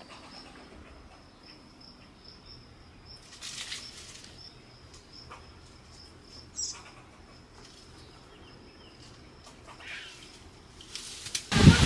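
Faint outdoor chirping: a high, thin note repeated evenly about three times a second, with a single brief louder chirp about two-thirds of the way through. A loud rush of wind-like rustling comes in right at the end.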